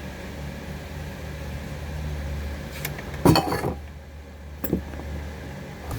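Two sharp metal-on-metal clanks, a loud one about three seconds in and a lighter one about a second and a half later, over a steady low hum.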